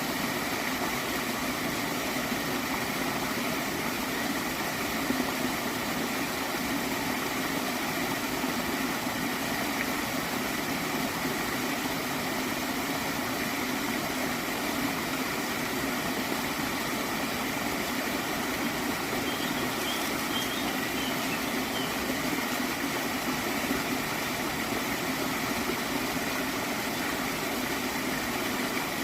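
Small stream of water flowing and gurgling, steady and even.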